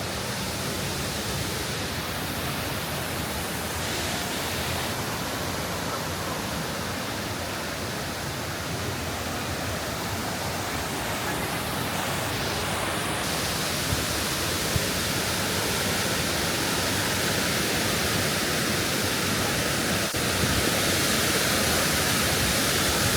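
Waterfall rushing: a steady, dense wash of falling water that grows a little louder and brighter about halfway through.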